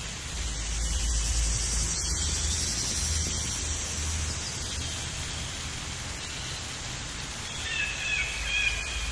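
Outdoor ambience: a steady rushing noise with a low rumble, and a few short chirping calls near the end.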